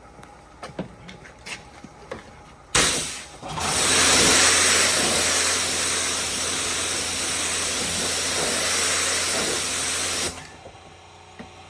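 Rinse water spraying onto a car's clay-barred paint: a brief spurt about three seconds in, then a steady, loud hiss of spray for about seven seconds that cuts off suddenly.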